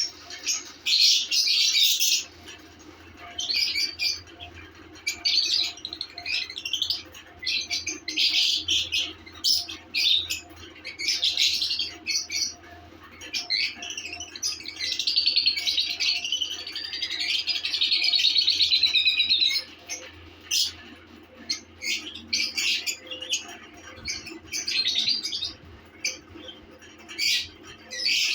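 Lovebirds chirping and chattering in quick bursts of shrill calls, with one long unbroken stretch of chatter lasting about five seconds in the middle.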